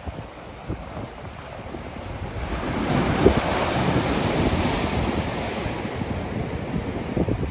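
Ocean surf: a wave breaks and washes in, the rush swelling from about two seconds in and slowly easing, with wind buffeting the microphone.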